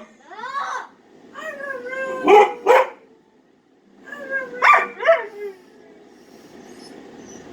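Pet dog 'talking' in answer to being coaxed to say 'I love you': a string of wavering, pitch-bending howl-like calls with a few sharp barks. They come in three bursts, with a short pause around three seconds in, and die away after about five and a half seconds.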